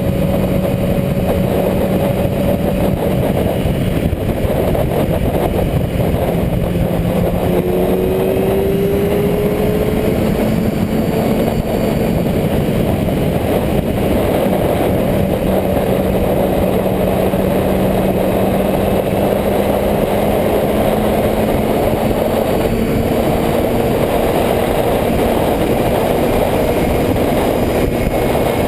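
Motorcycle engines running steadily at a loud, even level, one engine note holding nearly constant and drifting slowly in pitch, with a second engine note rising briefly about eight seconds in.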